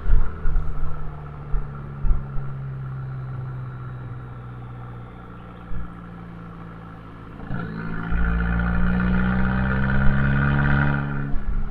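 Abarth 595C's turbocharged four-cylinder engine through an Akrapovič exhaust, driven on the road. It gives choppy, uneven bursts in the first two seconds and then runs lower and steadier for several seconds. From about seven and a half seconds in it pulls louder with a slowly rising pitch, then eases off near the end.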